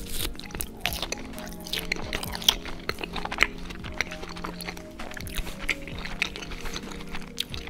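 Close-miked chewing: irregular crunchy bites and wet mouth clicks from a person eating, with the loudest bites about two and a half and three and a half seconds in. Background music plays steadily underneath.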